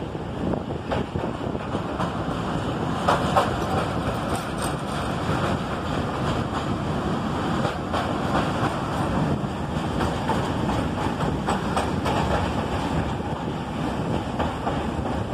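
Narrow-gauge Kangra Valley Railway train running, heard from an open coach window: steady rumble of wheels on the rails with scattered clicks over the rail joints, and wind buffeting the microphone.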